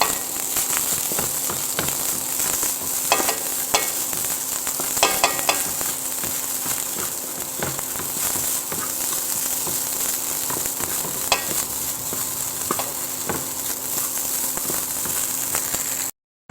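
Food sizzling as it fries in a hot pan, with a steady hiss and occasional sharp knocks and scrapes of a spatula stirring it. The sound cuts off abruptly just before the end.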